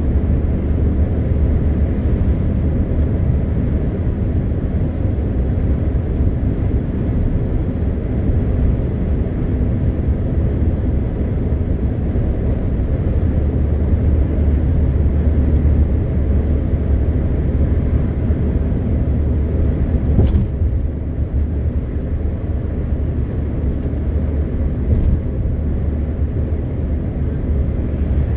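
MAN TGX 520 truck on the move, its straight-six diesel and the road noise making a steady low drone. Two faint brief clicks come in the second half.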